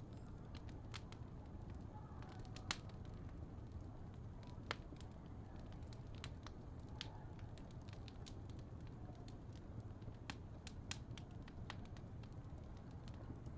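Wood fire crackling: irregular sharp pops and snaps over a steady low rumble, with two louder pops a few seconds in.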